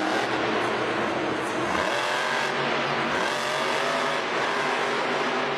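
Monster truck engine running and revving under a dense, steady roar, its pitch rising and falling.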